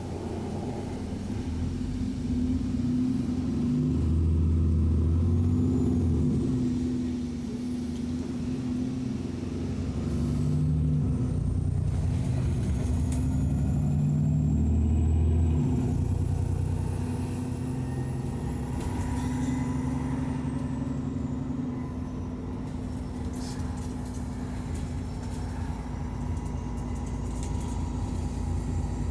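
Alexander Dennis Enviro 400 double-decker bus engine pulling away and accelerating twice, its rumble swelling and easing, with a high turbo whine rising and falling above it.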